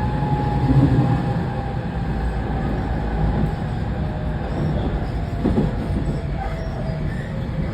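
Running noise inside the motor car of a JR West 207 series 1000 subseries train with a Toshiba IGBT VVVF inverter: steady rumble of wheels on rail under a faint motor whine that slowly falls in pitch. A short squeal comes about five and a half seconds in.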